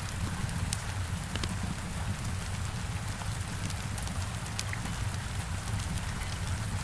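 Heavy rain hitting a window, a steady hiss over a low rumble, with scattered sharp crackles from a wood fire.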